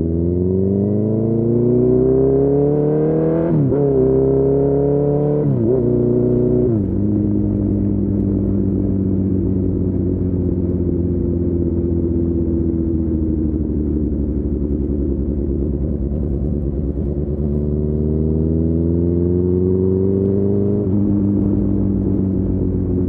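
Honda CB1000R's inline-four engine, through a full Akrapovic exhaust, accelerating hard through the gears. The pitch climbs and drops sharply with three quick upshifts in the first seven seconds. It then cruises with the revs easing off, pulls up again, and shifts up once more near the end.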